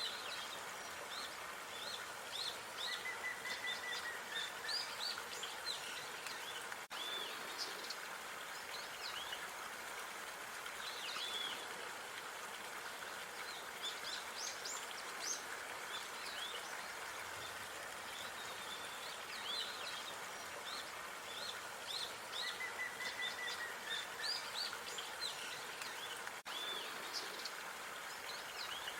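Outdoor park ambience: small birds chirping and singing in quick, repeated phrases over a steady background hiss. The same stretch of birdsong comes round again about twenty seconds later.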